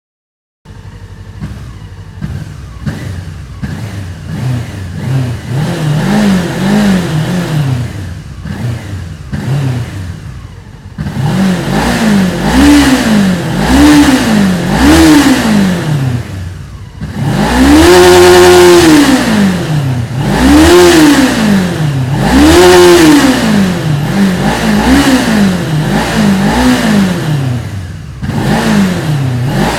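Honda CB500 motorcycle engine running and being revved over and over, each blip of the throttle rising in pitch and falling back. It starts with smaller blips, and the three longest, highest revs come just past the middle.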